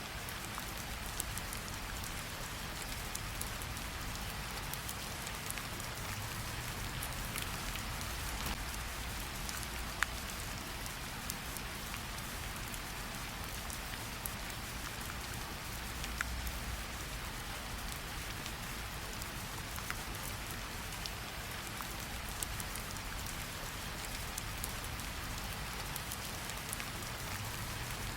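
Steady rain falling, an even hiss with occasional sharper single drops ticking out above it, the clearest about ten seconds in.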